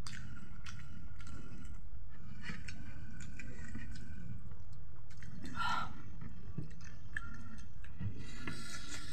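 People chewing food and eating with their fingers: soft chewing, with small clicks and scrapes against ceramic plates over a steady low hum.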